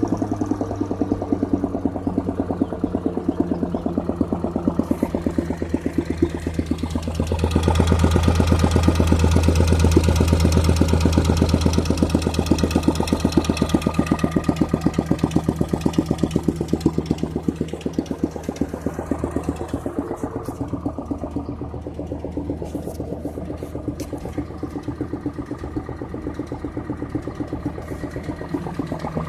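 Gas engine of a leaf vacuum running steadily, its note pulsing fast. It grows louder, with a rushing hiss over it, from about seven seconds in to about fourteen, then eases back to a lower level.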